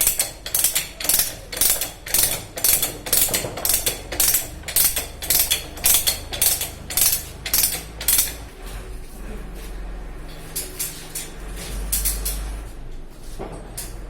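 A plumber's hand tool worked in steady rhythmic strokes, about two to three a second, that stop about eight seconds in; after that come fainter, scattered knocks.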